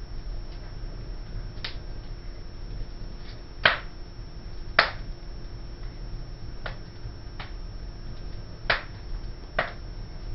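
Fire in a home fireplace crackling: sharp, irregular pops, about seven of them, some much louder than others, over a steady low hum.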